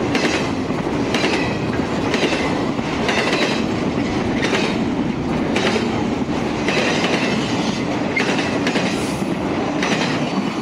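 Intermodal freight train of double-stack container cars and empty trailer flatcars rolling past at close range: a steady rumble with wheels clattering over the rails about once a second.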